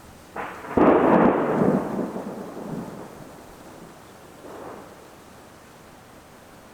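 Thunder from a supercell: a sudden loud clap about a second in, rolling off as a rumble over the next couple of seconds, with a fainter roll a few seconds later.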